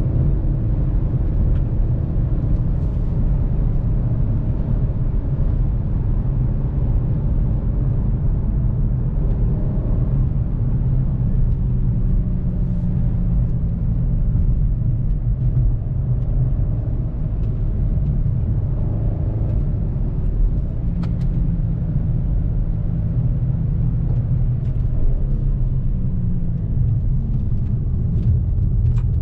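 Volkswagen CC's 3.6 VR6 engine and tyres giving a steady low rumble while the car drives along, the engine note shifting pitch gently a few times.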